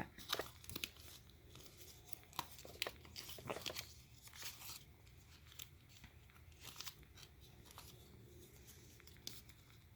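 A sheet of paper being folded and creased by hand: faint, scattered crinkles and crisp rustles, busiest in the first few seconds, then sparser.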